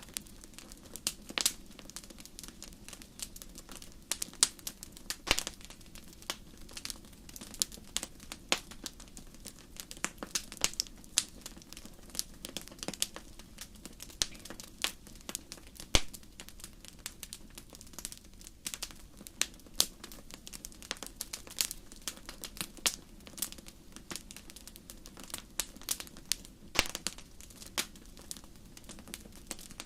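Wood fire crackling in a fireplace: irregular sharp pops and snaps, many a second, over a steady low hiss of burning.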